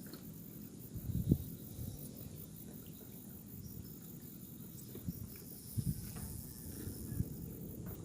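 Insects chirring steadily in a high register, with a few dull low thumps, the loudest about a second in and others near the end.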